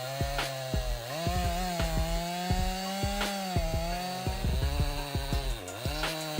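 Chainsaw engine running steadily under test. Its pitch steps up about a second in and dips briefly near the end, with frequent sharp ticks throughout.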